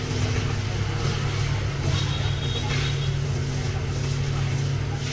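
An engine running steadily at a constant speed, a low even hum that does not rise or fall.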